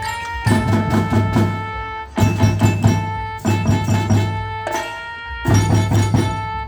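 Marching band playing: held pitched chords over drum strokes, in short phrases broken by brief gaps.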